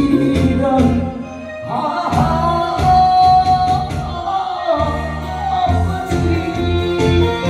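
A voice singing over backing music with a steady beat, holding a long note through the middle.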